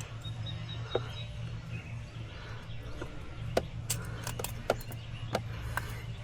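Scattered short, sharp clicks and taps of hand tools and parts being handled while a replacement sensor is set in place on the engine, most of them bunched in the second half, over a steady low hum.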